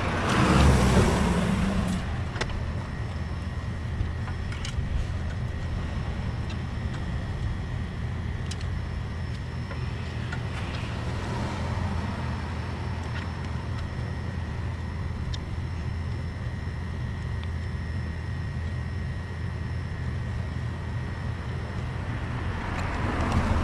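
A steady low mechanical hum with a thin, steady high whine over it and a few faint clicks.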